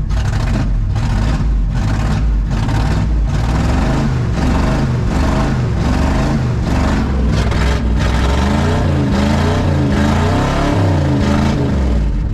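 1979 Ford F150's V8 engine running just after starting, its revs rising and falling again and again with an uneven pulsing beat. It runs very poorly, overfueling.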